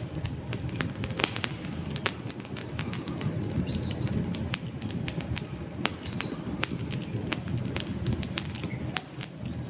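Wood campfire burning: frequent irregular sharp crackles and pops over a steady low rush of the flames.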